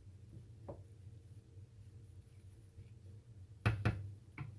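Kitchenware knocking: two sharp clacks close together late on, then a lighter one, over a steady low hum.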